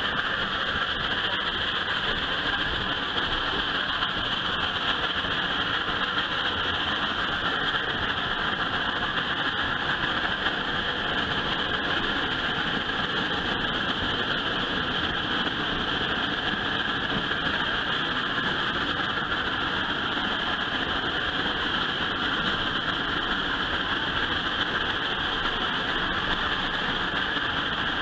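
Steady running noise of a passenger train moving along the track, heard from inside an open-sided coach, an even noise that does not change.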